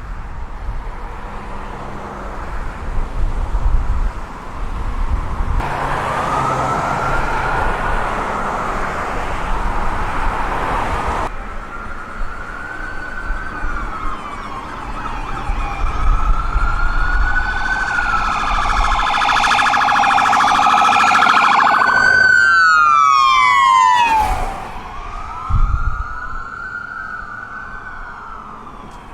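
Emergency vehicle sirens wailing, their pitch slowly rising and falling, with two or more sirens overlapping and a quick rapid-sweep pattern a little after the middle. A low rumble runs underneath through the first half.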